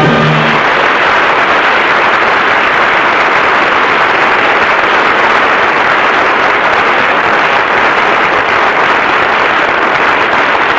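Studio audience applauding steadily, as the final held chord of the orchestra and singers ends about half a second in.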